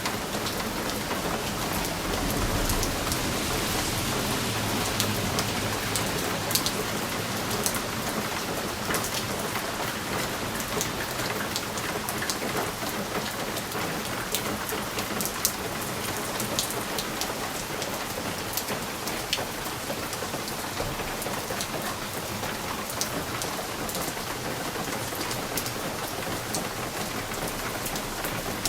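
Steady rain pattering on a window pane, with many individual drops ticking sharply against the glass. A low rumble swells briefly a few seconds in.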